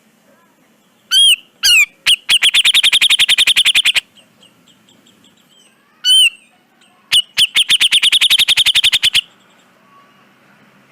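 Cucak jenggot (grey-cheeked bulbul) singing two loud phrases. Each opens with one or two sharp down-slurred notes, then runs into a fast rattling trill of about ten notes a second for about two seconds. The first phrase comes about a second in, the second about six seconds in.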